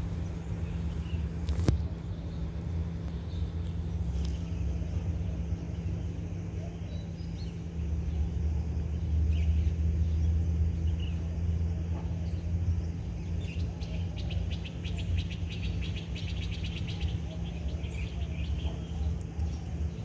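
Birds chirping over a steady low rumble, with a fast repeated trill of chirps a little past the middle. A single sharp click about two seconds in.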